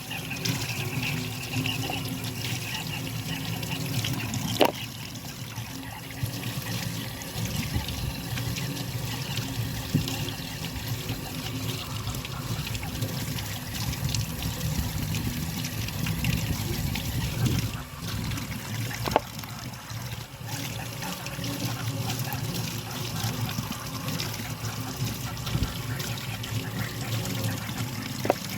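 Steady rain falling, with water trickling and running off, and three sharp clicks about 5, 19 and 28 seconds in.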